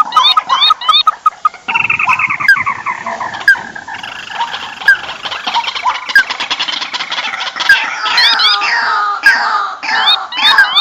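Many rice-field birds calling noisily together: overlapping chirps, short rising whistled notes and a rapid trill about two seconds in. This is a recorded bird-lure call (pikat), meant to draw birds in.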